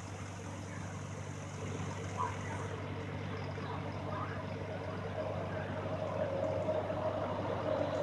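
A vehicle engine running steadily with a low hum, a higher whine joining about five seconds in and growing louder toward the end.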